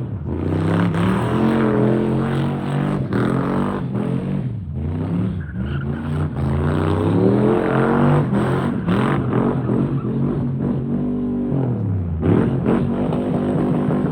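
Turbocharged 6-liter V8 in a Chevy C10 truck revving, its pitch climbing and dropping several times, with a few sharp dips as the throttle comes off.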